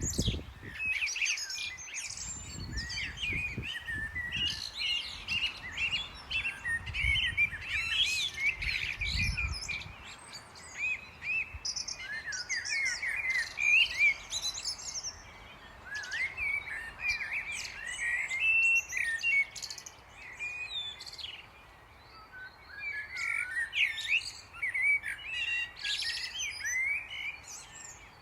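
Several small songbirds chirping and twittering continuously in quick, overlapping calls. Intermittent low rumbles sound during the first ten seconds or so.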